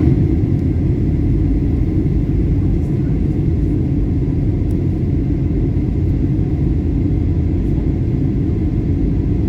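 Airliner cabin noise in flight: a steady low rumble of engines and airflow, with a faint steady high hum above it.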